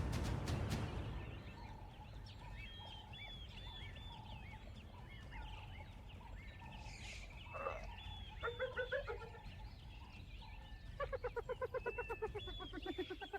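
Wild birds chirping and calling over a low rumbling background, with a brief loud rush in the first second. Near the end a bird gives a rapid, evenly repeated cackling call series.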